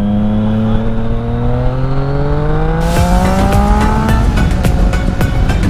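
Yamaha MT-09 Tracer 900's three-cylinder engine with an Akrapovič exhaust accelerating, its pitch rising steadily, then dropping about four seconds in as it shifts up a gear. From about three seconds in, wind rushes and buffets the microphone.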